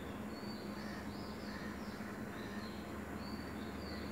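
Faint, high, irregular chirps, as of birds, over a steady low hum and background hiss.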